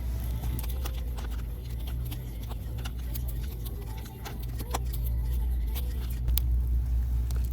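Firewood burning in a campfire, crackling with irregular sharp pops and snaps over a steady low rumble.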